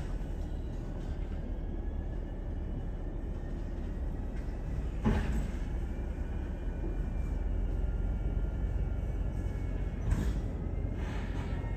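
Garbage truck's engine and hydraulics running steadily as the packer compacts bulk waste, with a faint high whine over the rumble. Two loud bangs about five seconds apart as the load is crushed.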